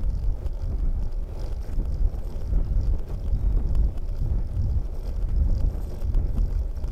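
Wind buffeting the microphone: a low, gusty rumble that swells and dips throughout.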